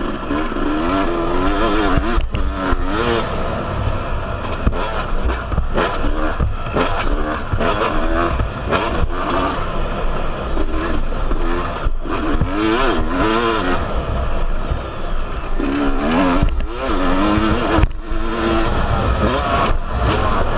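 Yamaha YZ250's single-cylinder two-stroke engine being revved up and down repeatedly as the bike is ridden hard around a motocross track, its pitch rising and falling about every second. Heard from on board, with rough noise and short knocks over the engine.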